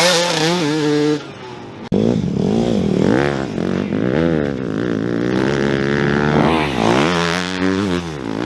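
Dirt bike engine revving hard, its pitch rising and falling again and again as the throttle is worked on and off. The engine note drops away about a second in and cuts sharply back in near two seconds.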